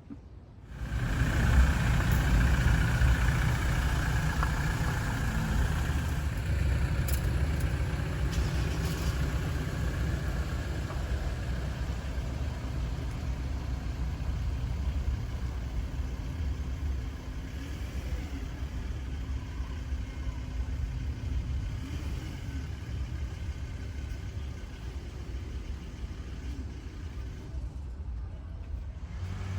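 Toyota 1ZR-FE 1.6 L four-cylinder engine starting about a second in and running steadily at idle, its loudness easing a little over time.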